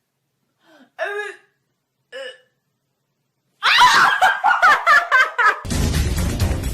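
A few short vocal sounds, then a person laughing in quick, high-pitched bursts for about two seconds. The laughter cuts off and a loud, steady rushing noise begins.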